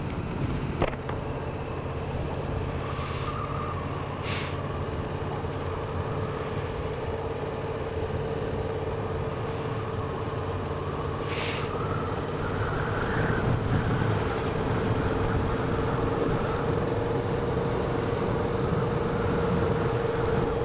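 Yamaha XSR700's 689 cc parallel-twin engine running as the motorcycle rides at low speed, heard from a helmet camera with wind on the microphone. There is a sharp click about a second in, and the engine gets a little louder from about two-thirds of the way in.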